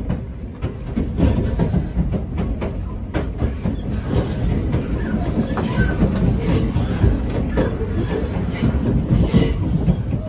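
Passenger train heard from inside the carriage while running through a yard: a steady rumble with irregular wheel clicks over rail joints and points, and a few faint wheel squeals around the middle.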